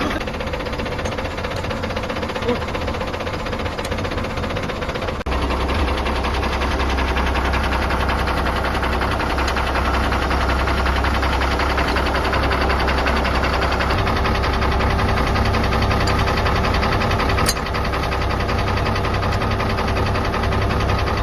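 A large engine runs steadily throughout. About five seconds in it drops out for an instant, then carries on with a heavier low-end hum.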